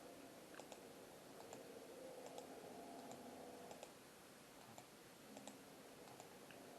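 Near silence with faint, sharp clicks scattered irregularly throughout.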